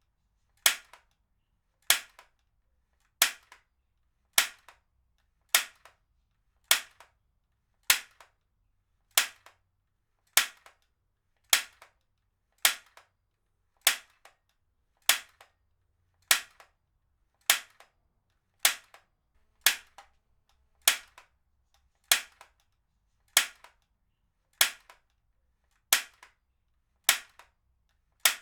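Heavy-duty stapler fired over and over at an even pace of about one staple every 1.2 seconds. Each shot is a sharp snap followed by a fainter click.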